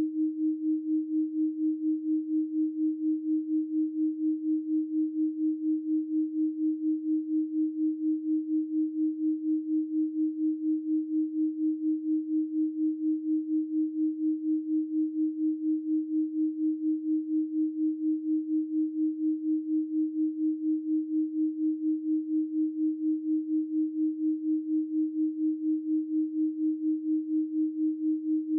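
Steady 312 Hz pure sine tone, held without a break and pulsing evenly in loudness a few times a second.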